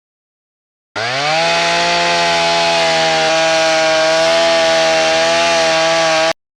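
A power tool's motor starting about a second in, rising in pitch over about half a second, then running at a steady pitch for about five seconds before cutting off suddenly.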